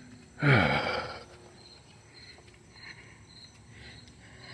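Insects chirping steadily and faintly in the background, cricket-like, with a brief wordless vocal sound from a man about half a second in.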